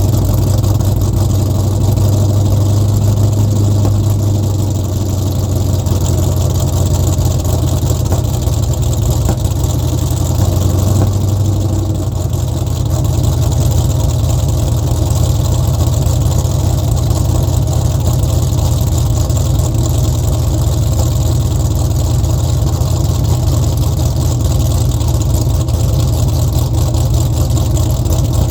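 LS V8 swapped into a Mach 1 Mustang, idling through its exhaust with a steady low rumble. The idle swells slightly twice, a couple of seconds in and again around ten seconds.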